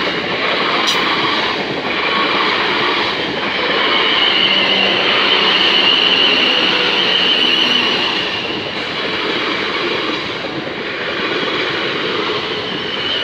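South Western Railway passenger train passing close by at speed, a steady loud rush and rumble of wheels on rails. A thin high whine rides on top for a few seconds in the middle.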